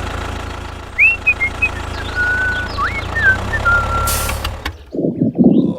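Cartoon vehicle sound effects: a steady low engine rumble with short whistle-like chirps that glide up and down, then a brief raspy sputter near the end.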